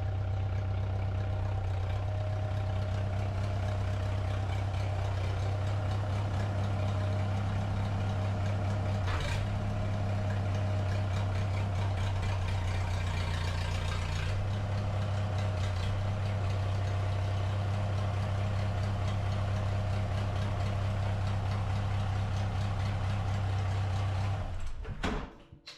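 Homemade mini loader's engine idling steadily, with small shifts in its note about 9 and 14 seconds in. The engine then shuts off near the end.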